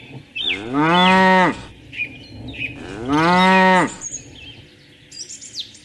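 A cow mooing twice: two long moos of about a second each, two seconds apart, rising and then falling slightly in pitch. Short high bird chirps come in between.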